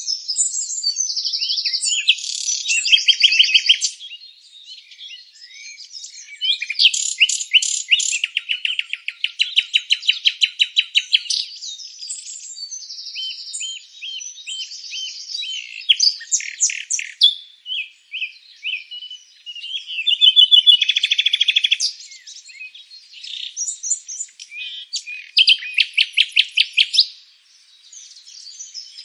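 Several songbirds singing at once: overlapping rapid trills and quick chirping phrases, high-pitched, with brief lulls twice.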